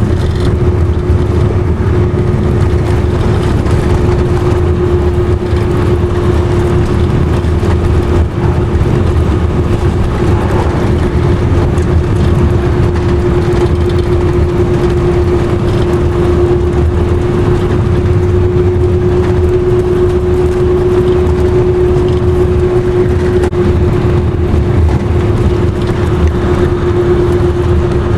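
Steady road and engine noise of a vehicle driving at highway speed: a constant low rumble with a steady hum running over it.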